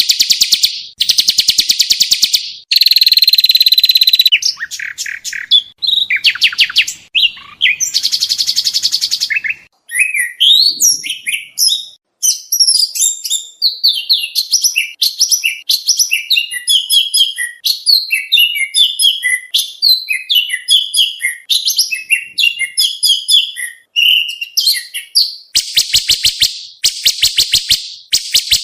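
Oriental magpie-robin (kacer) song from a mastering track for training songbirds: loud buzzy rattling trills, then a fast, varied run of chirps and whistles, with the rattling trills coming back near the end.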